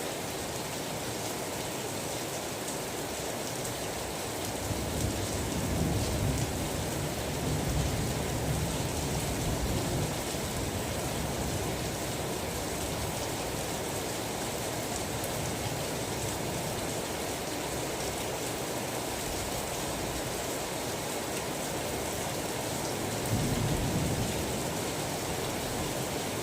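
Steady rain falling, with low rumbles of distant thunder swelling twice, about five seconds in for several seconds and again near the end.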